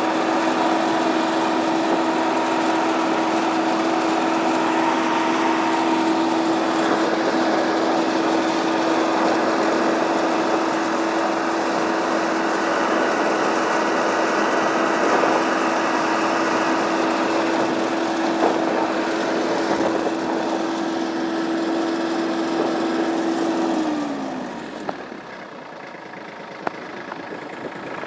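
Massey Ferguson tractor engine running steadily at high revs. About 24 seconds in it is throttled back: the pitch slides down and it settles to a quieter idle.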